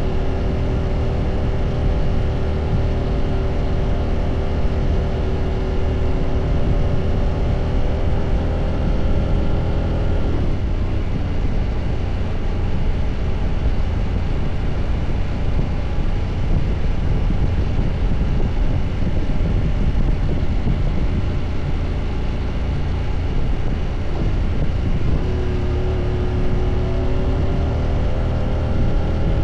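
Husqvarna motorcycle engine running under steady throttle with a slowly rising note, over a constant rush of wind and road noise. About ten seconds in, the engine note drops out under the rushing noise. It comes back a few seconds before the end, climbing in pitch again.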